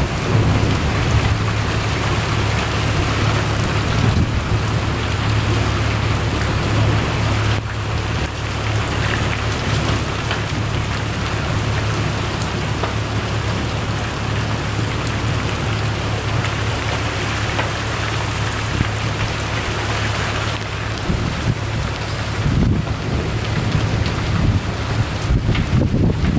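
Heavy rain pouring down steadily, a downpour hard enough to be overflowing the downspouts.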